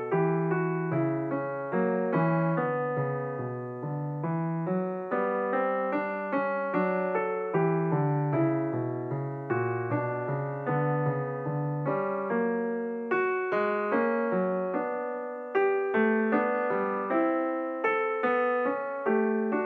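Background piano music: a steady flow of struck notes, each fading after it is played.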